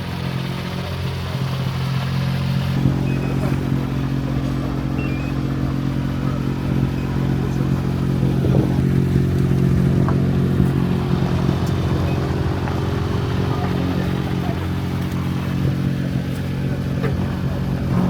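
Ford Fiesta R2T rally car engine running at a steady, unchanging pitch. It gets fuller from about three seconds in.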